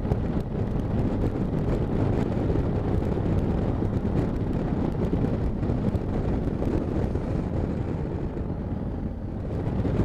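Riding noise from a Honda Africa Twin motorcycle at speed, heard through a helmet-mounted camera: steady wind buffeting on the microphone over the engine and road noise.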